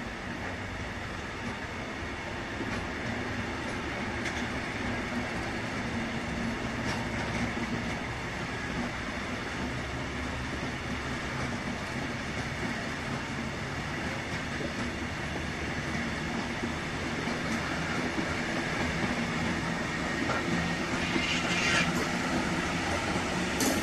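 Freight train of open goods wagons rolling past, a continuous rumble and clatter of steel wheels on the rails that grows louder as the wagons come closer. Near the end comes a brief high wheel screech.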